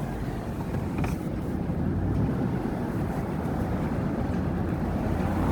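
A truck's engine and road noise heard from inside the cab while driving: a steady low rumble.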